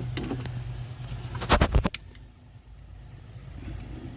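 A quick cluster of sharp clicks and knocks about one and a half seconds in, from a screwdriver working at a small plug by the PCV valve, over a steady low hum.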